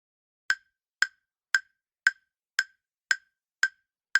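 Countdown timer sound effect: a short, sharp clock-like tick repeating evenly about twice a second, eight ticks in all, counting down the time to answer.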